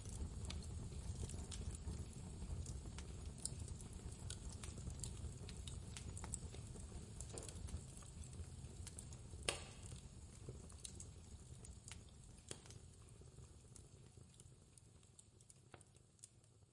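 Fireplace crackling, with scattered sharp pops, one louder pop about halfway through, over a low steady rumble of storm wind; the whole sound fades down over the last few seconds.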